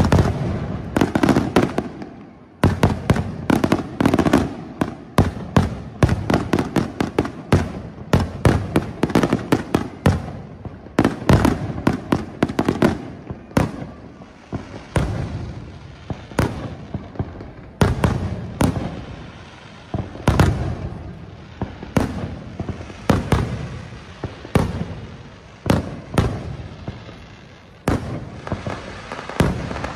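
Aerial fireworks display: a dense barrage of shells and cake shots bursting, starting suddenly with many bangs a second, then thinning about halfway through to sharp bangs roughly a second apart.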